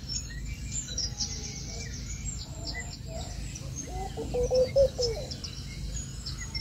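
Bird chirps and calls: a run of short, high chirps over the first three seconds, then a louder, lower call about four to five seconds in.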